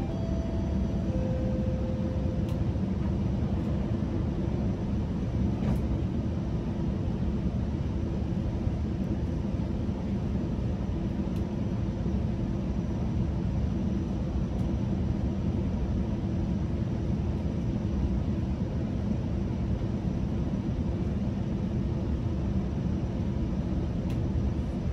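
Steady rumble and hum inside a GO Transit commuter train coach as the train runs between stations. A short three-note falling chime sounds at the very start.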